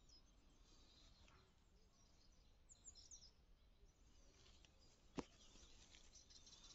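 Near silence with faint outdoor background noise, a brief burst of faint bird chirps about three seconds in, and a single faint click a little after five seconds.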